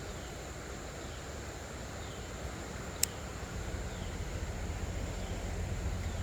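Creekside ambience: a steady high insect drone with faint repeating chirps over a low rumble on the phone's built-in microphone, and one sharp click about three seconds in.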